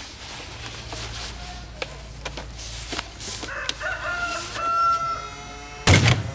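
A rooster crowing once, a call that climbs and ends on a long held note, over light clicking and background noise. Near the end a loud, low, thudding beat starts.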